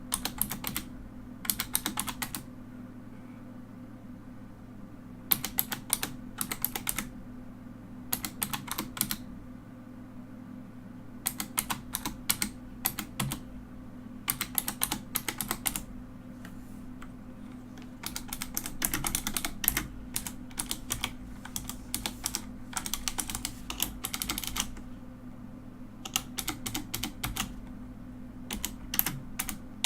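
Mechanical keyboard being typed on in runs of quick clacking keystrokes, each run a second or two long with short pauses between them, over a faint steady hum.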